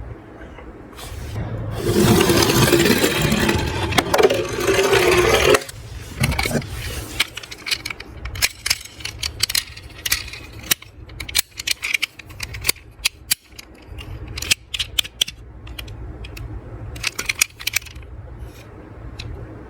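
Small diecast toy cars on a toy slope: a loud rushing roll lasting about three and a half seconds, then a long run of light, irregular metallic clicks and clatters as the cars knock and are handled, over a steady low hum.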